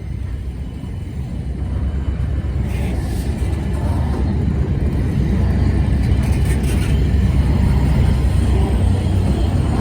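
A train approaching: a low rumble that grows steadily louder.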